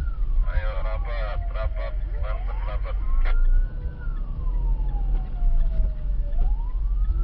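Siren wailing, rising and falling in slow sweeps about once every four seconds, over a steady low vehicle rumble.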